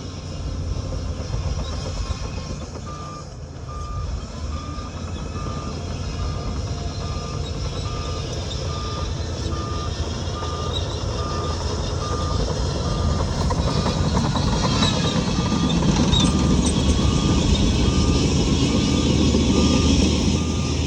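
Reversing alarm beeping steadily at roughly three beeps every two seconds over a heavy diesel engine running; the engine grows louder about two-thirds of the way through as the machine backs up.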